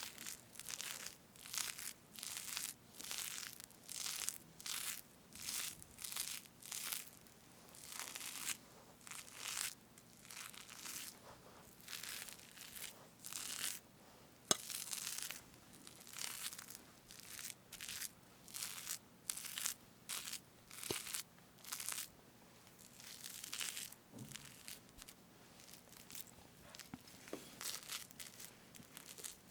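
Whipped cream on a strawberry cake being cut and parted close to the microphone: short soft tearing strokes repeated about once a second.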